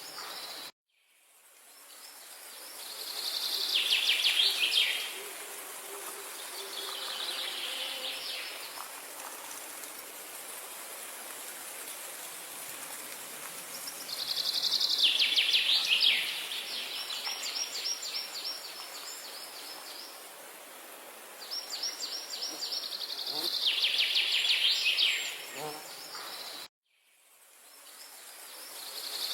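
Songbird singing trilled phrases of rapid repeated notes, one every few seconds, over a steady high ambient hiss. The sound cuts out abruptly about a second in and again near the end, each time fading back in over a couple of seconds.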